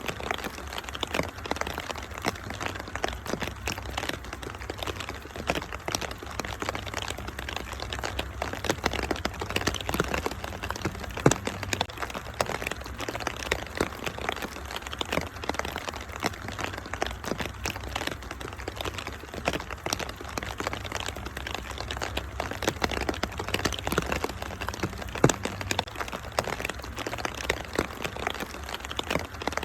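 Wood fire crackling in a fireplace, with a dense run of small pops and two louder pops about 11 and 25 seconds in, over a steady rain-like hiss and a low rumble.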